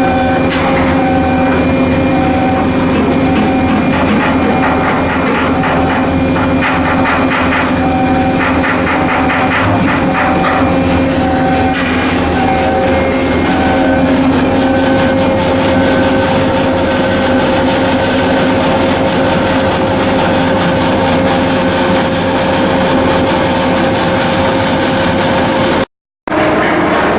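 Heavy machinery running with a steady hum, over which a short electronic warning beep repeats about once a second, shifting to a higher pitch about halfway through. A spell of rapid rattling comes between about a quarter and two fifths of the way in.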